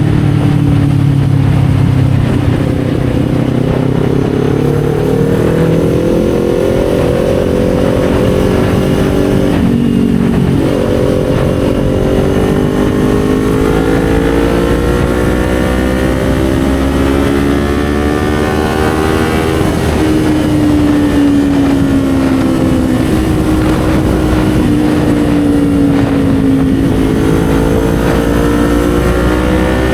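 Kawasaki Z400's parallel-twin engine running under way, its pitch climbing and falling as the bike accelerates and eases off, with a brief break about ten seconds in like a gear change and a drop in pitch around twenty seconds.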